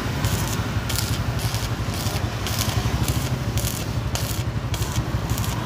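Stick-welding arc crackling and sizzling steadily with irregular sharp pops as a horizontal bead is run.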